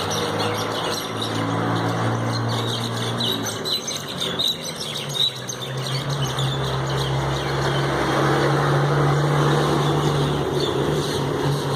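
Common mynas chirping and squawking in a squabble, with a burst of rapid calls in the first half. A steady low engine drone runs underneath and grows louder about halfway through.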